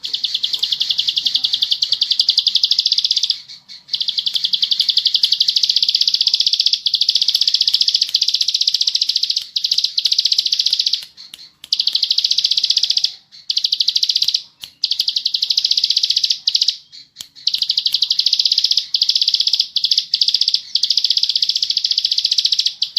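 Plain prinia (ciblek sawah) singing a very fast, buzzing trill in long runs of several seconds, broken by brief pauses.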